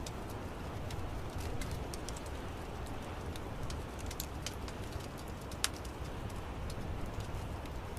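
Wood fire crackling in an outdoor fireplace: scattered sharp snaps and pops over a steady low rumble, with one louder pop about halfway through.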